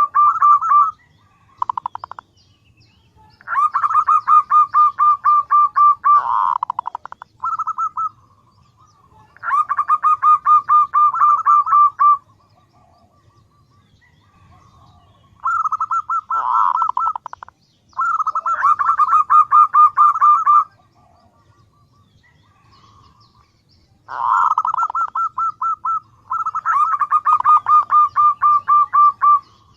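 Female zebra dove (perkutut) calling: bouts of rapid, evenly repeated notes, each bout lasting two to three seconds, with short pauses between them. This is the call of a hen perkutut that draws in males.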